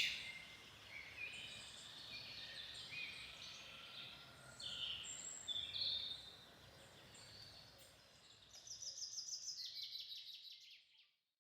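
Several forest songbirds calling with short chirps and whistled notes, then a fast, rapid trill near the end that cuts off suddenly.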